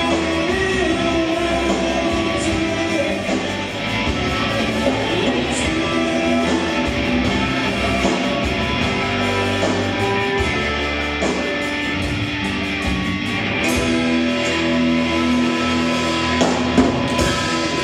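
A rock band playing live: guitars and drum kit in a steady instrumental passage with held notes, mostly without singing.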